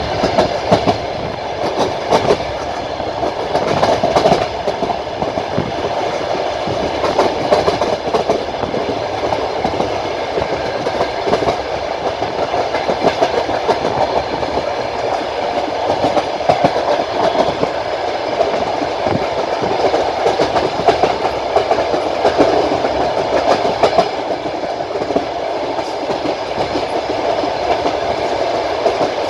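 Passenger train's wheels running over the rails at speed: a steady rumble with repeated clicks of the wheels crossing rail joints.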